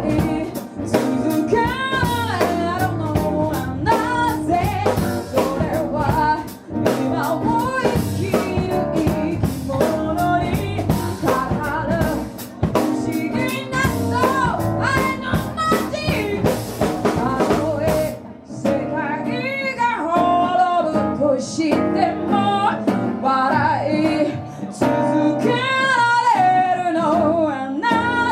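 A band playing a song: a sung melody over drums, bass and guitar. About two-thirds of the way through, the drums and bass drop out, leaving the voice over lighter guitar.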